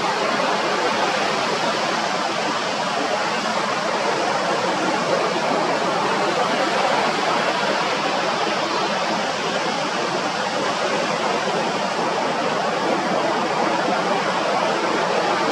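A steady rushing noise, even and unbroken, with no distinct calls or knocks standing out above it.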